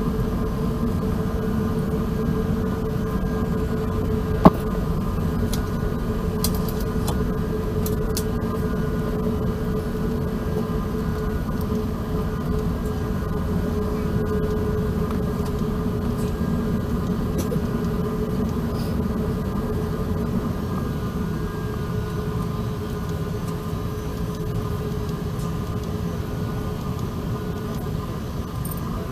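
Steady low rumble inside the cabin of an Airbus A380 airliner, with a steady hum over it. A single sharp click comes about four and a half seconds in.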